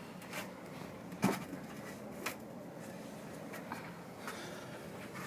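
A few short clicks and light knocks over a steady low hum, the loudest a little over a second in.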